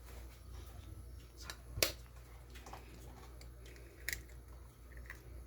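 An egg cracked against the rim of a mixing bowl: a sharp knock about two seconds in, with a few lighter taps and clicks around it.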